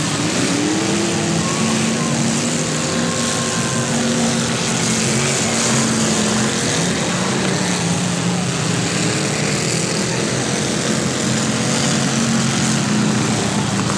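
Several demolition derby cars' engines running and revving together, a dense steady engine noise whose pitch keeps rising and falling.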